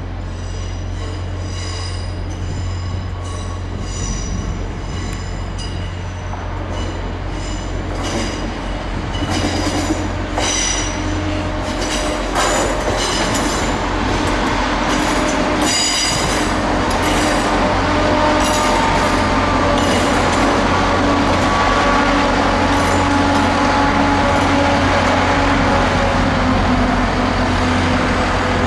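Northern diesel multiple unit running slowly past on curved track: a steady low engine drone under repeated high-pitched wheel-flange squeal, with a few sharp knocks over the rails midway. It grows louder as the train comes alongside.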